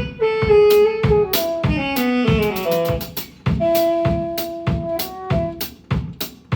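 Drum kit keeping a steady beat during a band sound check, under a melodic instrument playing a descending run of notes and then holding a two-note chord. Near the end the drums play on alone.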